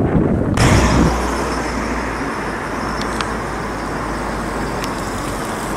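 Gusty wind on the microphone, giving way abruptly about half a second in to the steady rumble and hiss of a Thameslink Class 700 electric train approaching over the tracks. A few faint clicks sound near the middle and later on.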